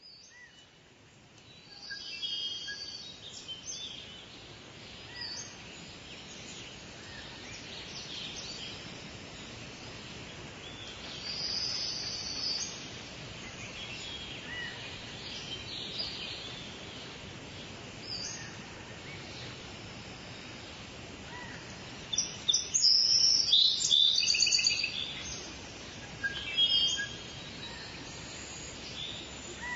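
Wild birds singing and chirping in the countryside over a steady background hiss, with short high calls throughout and a louder burst of rapid chirping about three-quarters of the way through.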